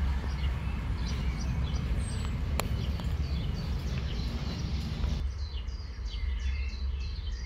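Birds chirping in short calls over a steady low rumble of outdoor background noise. There is one sharp click about two and a half seconds in. The background thins out about five seconds in while the chirping goes on.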